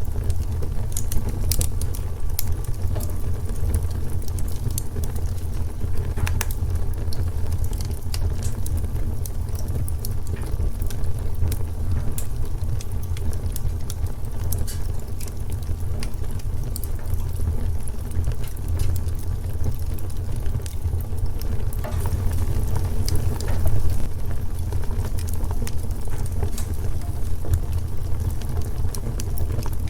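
Wood fire in a fireplace crackling: scattered sharp snaps and pops over a steady low rumble of the flames.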